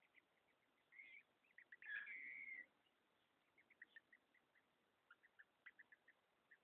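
Green-winged saltators (trinca-ferro) calling: many faint short chirps, with a louder, drawn-out call about two seconds in.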